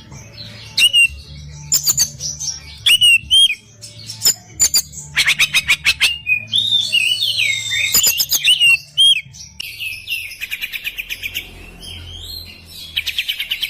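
Oriental magpie-robin singing a fast, varied song of whistled glides, sharp chips and rapid rattling trills, with barely a pause. Toward the end the song turns to quick repeated trill notes.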